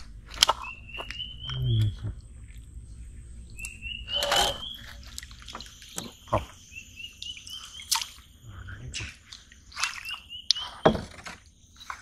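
A bird singing a phrase of short notes that climb step by step in pitch, repeated about four times. Between phrases come sharp knocks and water splashes from a wooden canoe being paddled.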